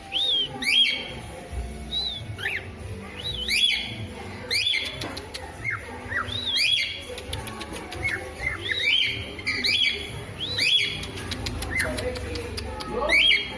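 A pet bird repeating a clear rising whistled call about once a second, each call sweeping up and hooking over at the top, with a few sharp clicks around the middle.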